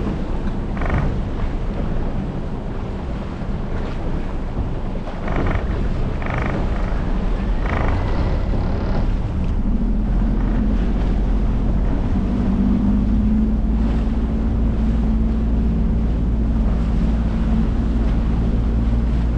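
Small speed boat's outboard motor running steadily, its hum growing stronger about halfway through, with wind buffeting the microphone and water rushing past.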